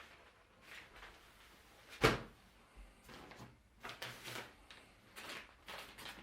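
Fireworks packaging being handled on a hard surface: one sharp knock about two seconds in, then several short rustles and scrapes of cardboard and packs being moved.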